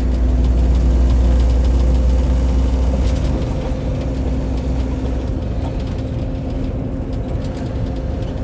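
Semi-truck engine and road noise inside the cab while driving on the highway: a steady low drone with a constant hum, the rumble easing slightly about halfway through.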